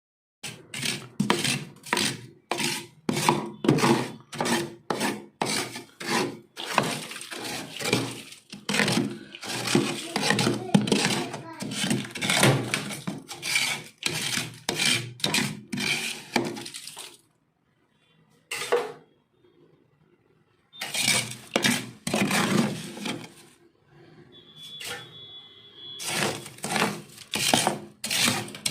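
Freezer frost being crunched and chewed right at the microphone, about two to three crisp crunches a second. The chewing stops for a few seconds about two-thirds of the way through, with a single crunch in the pause, then resumes.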